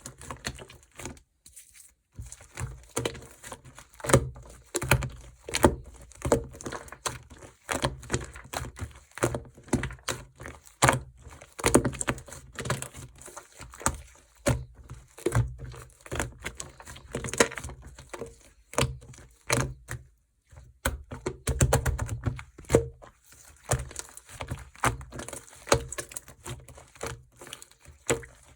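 Slime being squeezed, stretched and folded by hand, giving a dense run of sticky clicks and pops, with short lulls about two seconds in and around the two-thirds mark.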